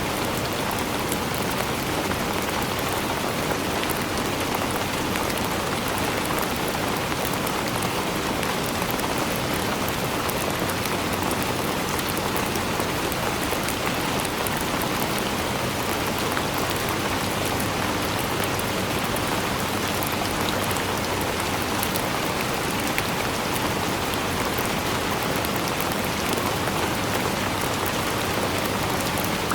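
Steady rain falling on a surface, a dense even hiss with fine drop patter.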